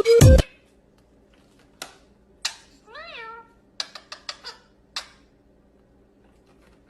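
A cat meows once, a short call that rises and falls, about three seconds in. Light clicks and taps come before and after it.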